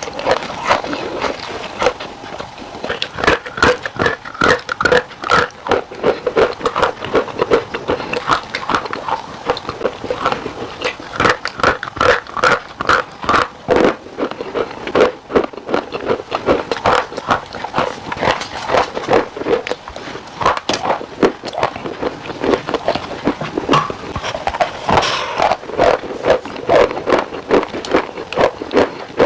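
Close-up chewing of crisp, crunchy food, a fast, continuous run of crackling crunches.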